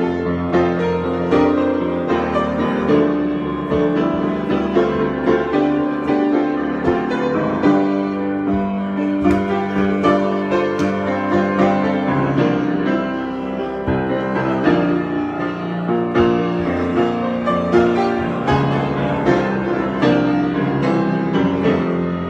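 Solo piano improvisation: continuous playing with many sustained, overlapping chords and frequent new notes.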